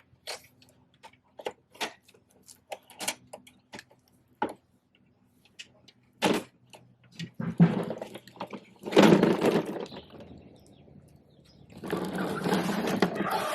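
Plastic parts of a Bruder toy garbage truck being handled: scattered sharp clicks and knocks, then two longer spells of rattling and scraping, the louder one about nine seconds in.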